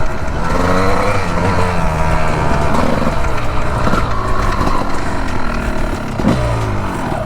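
Two-stroke Honda 250 dirt bike engine revving hard, its pitch climbing and dropping several times as the bike accelerates.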